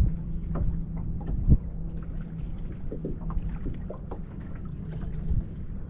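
Water slapping against the aluminum hull of a fishing boat in choppy water, with short scattered knocks and a sharper knock about a second and a half in, over a steady low hum.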